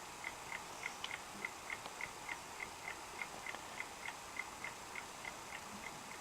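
Clock ticking steadily and faintly, about three ticks a second, over a light hiss.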